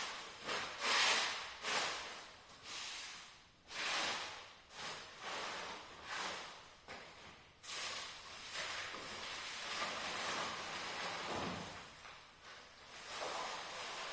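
Floor being swept with a broom: a series of short swishing strokes, roughly one a second, with a steadier stretch of brushing in the middle.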